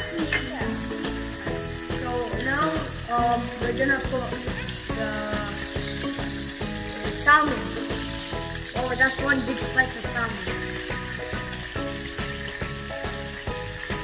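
Frying pan sizzling as salmon fillets are laid in among onion, chili, garlic and lemongrass, under background music with a steady beat.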